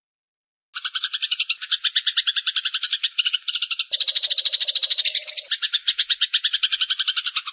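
A rapid, even trilling animal call, about a dozen pulses a second, played as a songbird tutor recording. It starts after a short silence, and a lower steady tone joins it about four seconds in.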